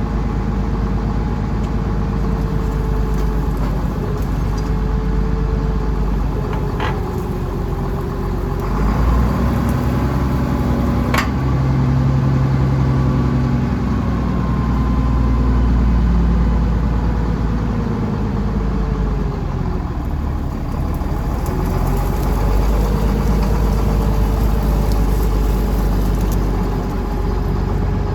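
A large farm vehicle's engine running steadily near idle, its speed dropping and picking up again a few times as the machine is moved. Two sharp clicks about seven and eleven seconds in.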